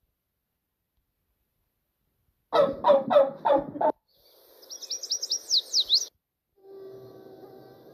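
Animal sounds played one after another after a silent start. First comes a loud, fast stuttering call of the gobble kind, then high chirping and whistling bird notes that sweep up and down. About two-thirds of the way in, a steady low drone begins.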